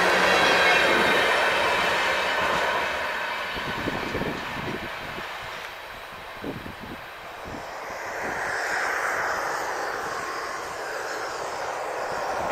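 A train rolling past on the rails and fading away, its wheels squealing in thin high-pitched tones. Near the end a broad rushing noise swells up.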